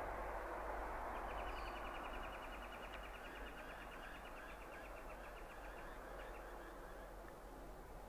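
A bird's rapid, even, high trill of about ten notes a second, from about a second in until about five seconds in, with fainter short sloping bird notes after it. Under it runs a rushing background noise that is loudest at the start and fades over the first two seconds.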